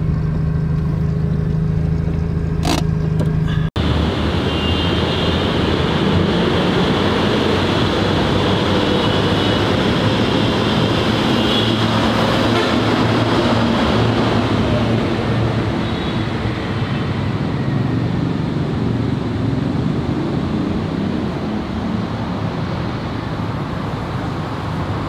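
A BMW E30's swapped-in Nissan SR20DET four-cylinder running steadily, heard from inside the cabin. After about four seconds it cuts abruptly to a steady wash of outdoor vehicle and traffic noise.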